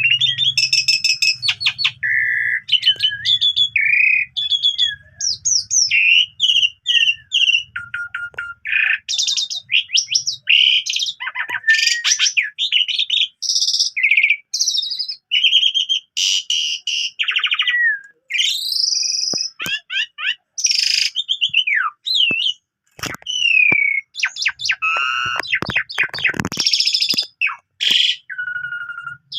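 Asian pied starling singing a long, varied song of clear whistles, slurred rising and falling notes, rapid chattering rattles and buzzy phrases, with only brief pauses. It is the full song, packed with phrases the bird has picked up by imitation.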